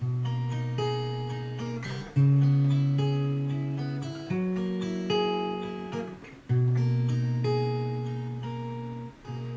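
Background music: acoustic guitar strumming chords, a new chord struck every second or two and left to ring.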